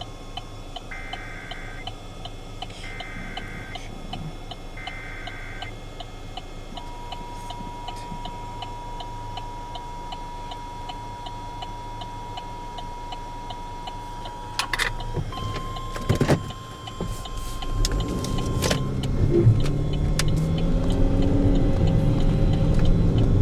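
Emergency Alert System tones on the radio: three short warbling SAME data bursts, then a long steady attention tone, then a second, slightly higher steady tone. A low rumble rises near the end.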